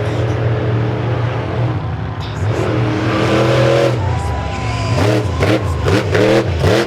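Big monster truck engines running and revving. In the second half come several quick throttle blips, each pitch rising and falling.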